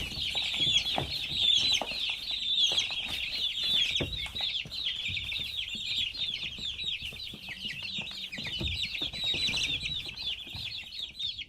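A group of chicks peeping continuously: many high, short chirps overlapping without a break.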